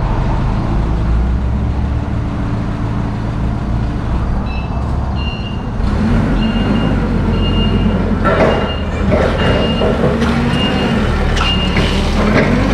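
A vehicle's engine running with its reversing alarm beeping, a short high beep repeated about twice a second that starts a few seconds in, with some clatter near the end.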